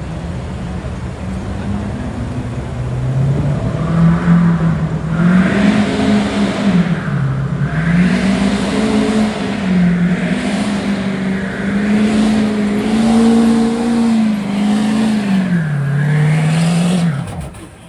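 Street stock diesel pickup truck's engine running hard under load while pulling the sled. The pitch rises and falls several times, then drops away sharply near the end as the engine shuts down.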